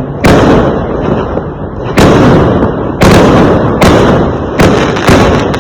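Fireworks exploding: six loud sharp bangs at uneven spacing, roughly one a second, each trailing off in a rumbling, crackling decay.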